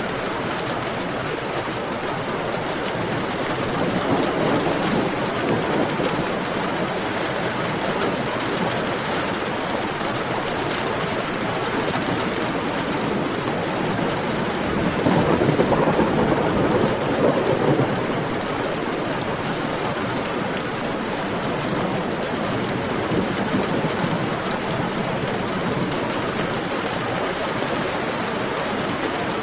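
Heavy rain falling steadily, a dense even hiss of drops, with a louder, deeper swell for a few seconds about halfway through.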